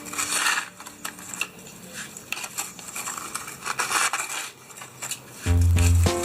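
Small hard objects clattering and crinkling, with scattered clicks. Music starts about five and a half seconds in.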